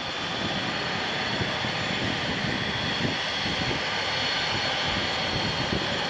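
Business jet's turbofan engines running steadily: a broad rush with a high, steady whine over it.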